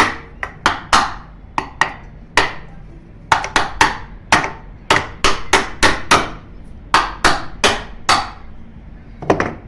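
A run of sharp hammer blows, about two dozen at an uneven pace, some in quick pairs with short pauses between groups.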